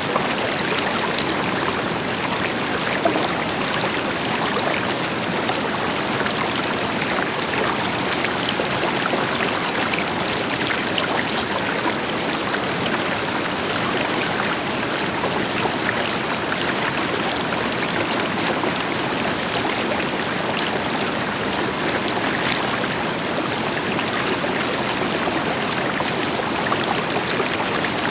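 River water flowing and splashing over rocks, with a distant waterfall adding a deeper rush underneath; a steady, even rush of water with no birds.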